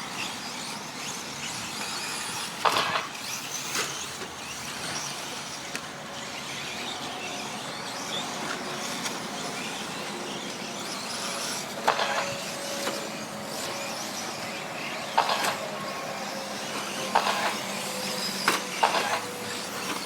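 Radio-controlled 4wd short-course trucks racing: a steady hiss of motors and tyres on the track, broken by about six sharp clacks of trucks landing or hitting each other.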